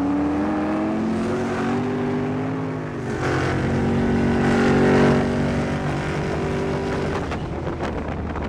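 Turbocharged 5.3-litre V8 of a 1968 Pontiac GTO accelerating hard, heard from inside the cabin. The engine note climbs, drops at a gear change about three seconds in, and climbs again. It fades about seven seconds in, leaving wind and road noise.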